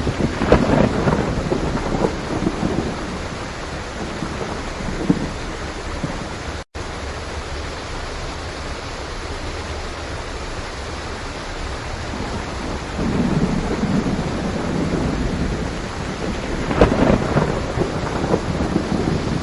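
Steady heavy rain with rolling thunder rumbles that swell near the start and twice more in the second half. The sound cuts out for an instant about a third of the way through.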